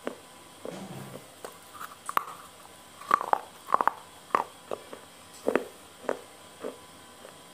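A person chewing spicy noodles: a run of short wet mouth smacks and clicks, about two a second, loudest and most frequent around the middle.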